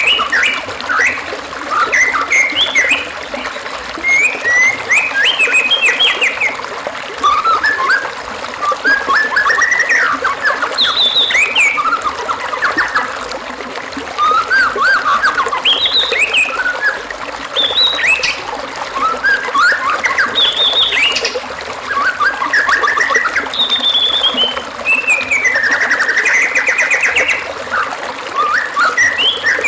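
White-rumped shama singing a continuous, varied run of short whistled and trilled phrases with brief pauses between them. This is a masteran song recording used to teach caged shamas a rich repertoire.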